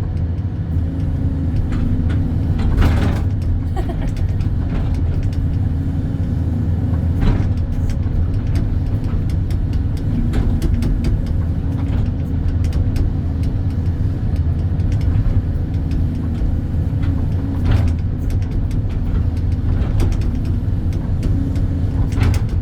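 Hydraulic excavator's diesel engine running steadily under working load while digging, with a few short knocks from the machine's work.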